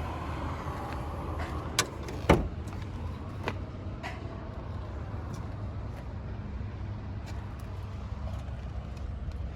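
A few sharp clicks and knocks from handling the pickup's interior fittings, the loudest about two seconds in, over a steady low rumble.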